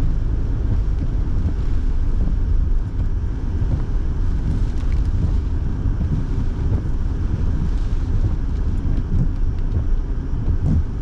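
Steady in-car noise while driving: a low engine and road rumble with the car's heater fan blowing.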